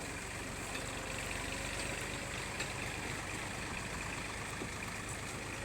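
Small farm tractor's engine running steadily while pulling a heavy load of fodder.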